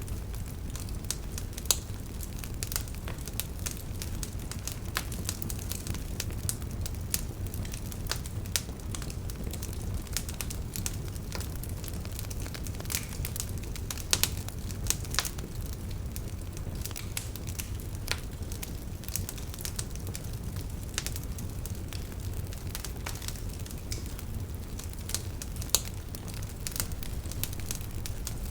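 Wood campfire burning with a steady low rumble and irregular crackles, with now and then a sharper, louder pop.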